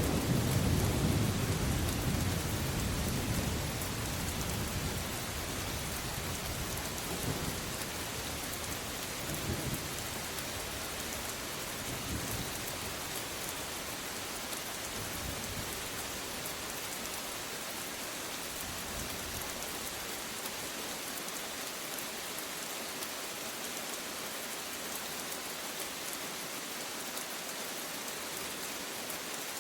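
Steady rain hiss with a roll of thunder that fades away over the first few seconds. A few fainter rumbles follow, then the rain goes on alone.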